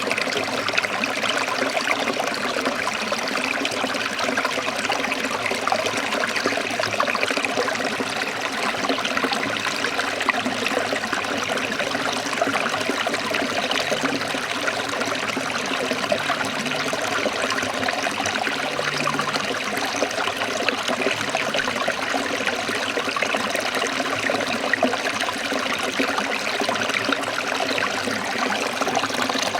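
Small forest stream trickling and babbling over rocks, a steady splashing rush of water.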